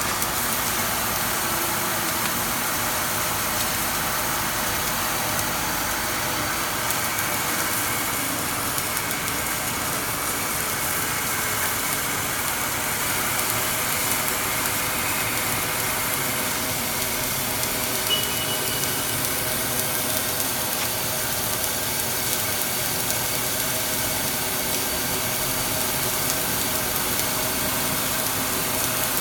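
Steady machine hum and hiss from a twin-head submerged arc circumferential welding machine running, with one short high tone about two-thirds of the way through.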